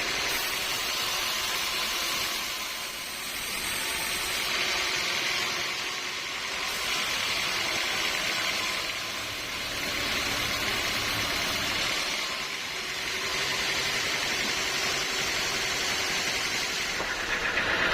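Steady mechanical noise with a strong hiss, swelling and easing every few seconds.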